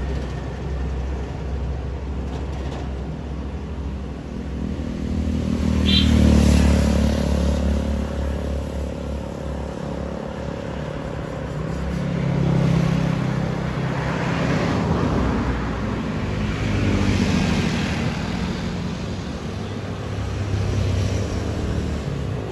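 Heavy road vehicles passing by, their diesel engines rumbling low, with the sound swelling and fading several times as each one goes past.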